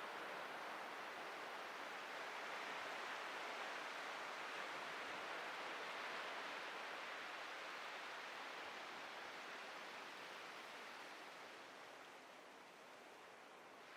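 Ocean waves breaking and washing ashore: a steady surf hiss that swells gently, slowly ebbs toward the end, then begins to build again.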